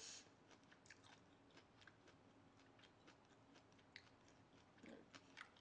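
Faint mouth chewing close to the microphone: soft, irregular little clicks and smacks, over a faint steady hum.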